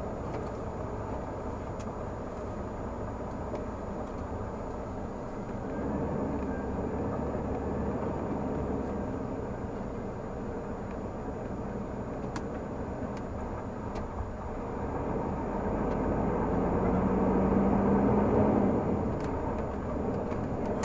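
Renault Magnum 480 truck's engine running while driving, a steady low rumble that grows louder about a quarter of the way in and is loudest with a steady drone toward the end before easing off.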